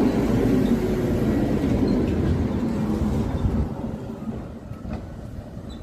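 Tram running past on its rails, a loud low rumble that fades away about three and a half seconds in.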